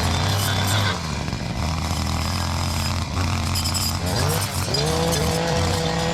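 An engine running steadily, then revving up about four seconds in and holding at the higher speed.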